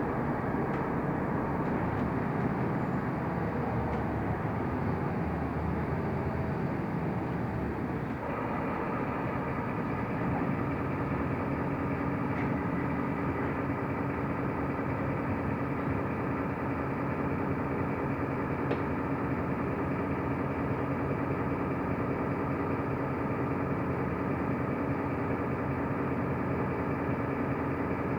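Mercedes-Benz O345 Conecto LF city bus driving, heard from inside the cabin: steady diesel engine and road noise. About eight seconds in the sound changes and settles into a steady hum.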